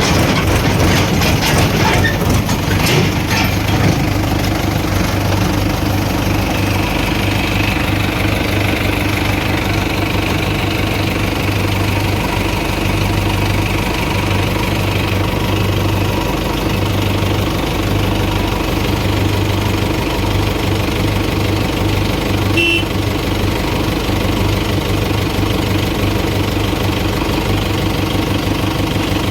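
Diesel engine of the earthmoving machinery running steadily, with a pulsing low throb and one brief short sound about three-quarters of the way through.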